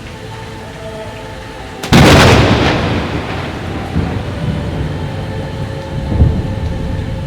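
Heavy rain falling, then about two seconds in a sudden loud thunderclap that rolls on into a long rumble, with another boom near the end.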